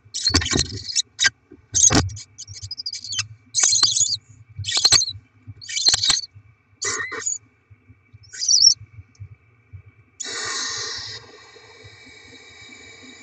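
Barn owl young giving rasping, hissing begging calls: a string of short hisses, a few dull bumps in the first two seconds, and a longer, louder call about ten seconds in.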